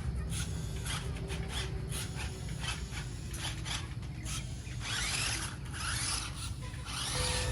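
Rasping, scraping noise in irregular short bursts, over a steady low hum.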